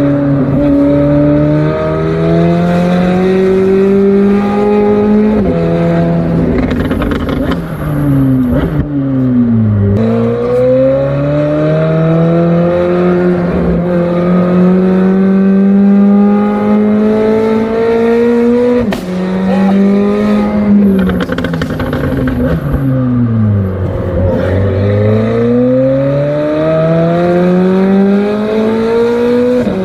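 McLaren 765LT's twin-turbo V8 accelerating hard through the gears, its note climbing in steps with quick upshifts. Twice the note falls away as the car slows and then climbs again under power, and there is one sharp crack from the exhaust about two-thirds of the way through.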